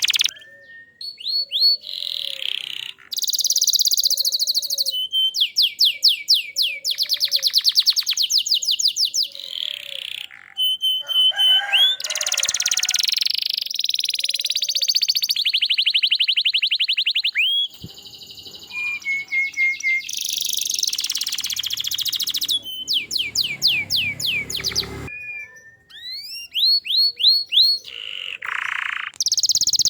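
Domestic canary singing a long, varied song of rapid trills and repeated sweeping notes, broken by brief pauses.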